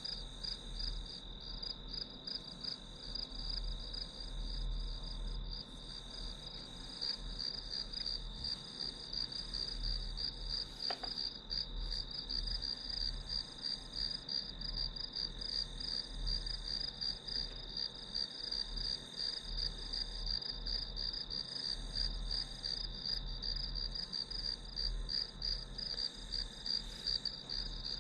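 Crickets chirping in a steady, rapid chorus: a high pulsing trill with a steadier tone just beneath it, over a faint low rumble.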